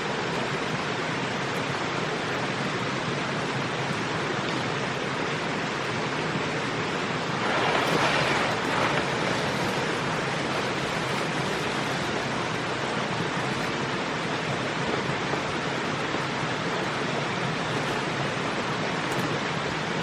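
Steady rushing water, with a louder rush lasting about a second and a half, some eight seconds in.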